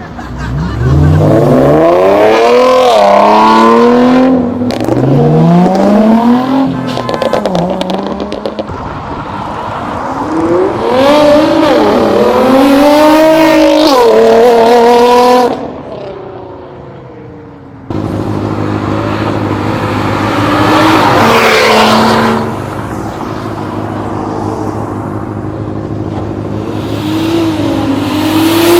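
Cars accelerating hard away, engines revving up through the gears with the pitch dropping at each shift, twice in a row. After a sudden change comes a steadier, deeper engine rumble with one short rev.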